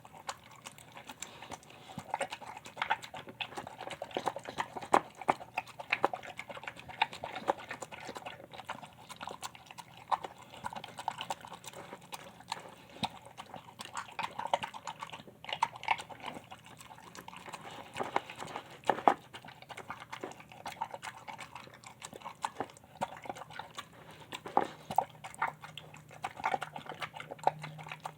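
A Shar Pei–pit bull mix dog eating a meal, chewing and crunching in quick, irregular clicks and smacks with no pause.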